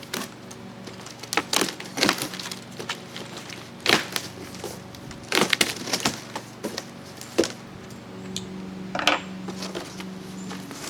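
E-bike kit packaging and parts being handled during unboxing: a series of sharp crackles and knocks at irregular intervals, a second or two apart.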